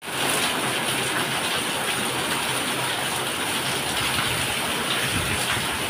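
Heavy rain pouring down on roofs, a dense, steady hiss.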